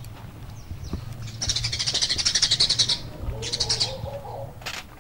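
A bird's rapid, buzzy trill, loud, lasting about a second and a half, then a shorter second trill. A sharp knock comes near the end.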